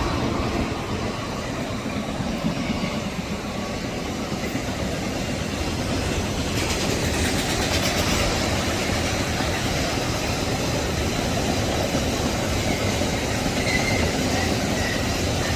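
Freight train wagons rolling past behind a diesel locomotive: a steady noise of wheels running on the rails, with no let-up.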